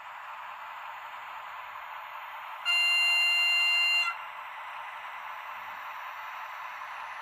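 Diesel locomotive horn sounding one steady note for about a second and a half, cutting off sharply, over a steady hiss.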